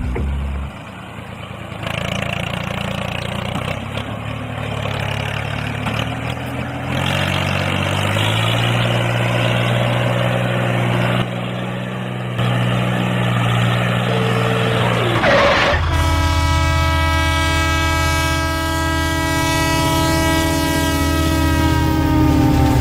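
A train's engine running with a low drone that steps up in pitch. About two-thirds of the way through, a train horn sounds one long, steady blast.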